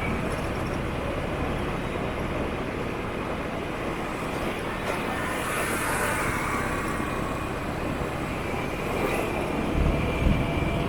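City motorbike traffic heard from a moving scooter: a steady wash of engine and road noise, with a couple of low thumps near the end.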